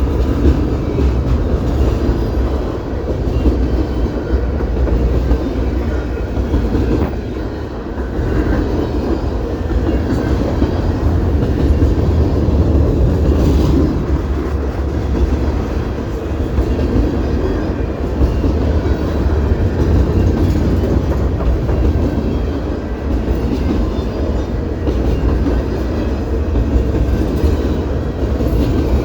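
Canadian Pacific train running by on the rails: a steady, heavy rumble of wheels on track, with no horn sounding.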